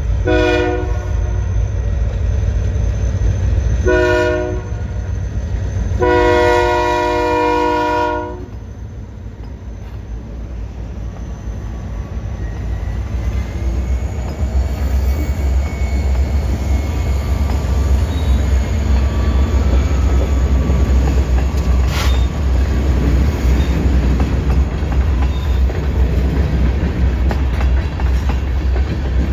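Freight train's diesel locomotive horn sounding three blasts, two short and one long, over a steady low rumble; the train then rolls past, wheels clattering over the rail joints and growing louder.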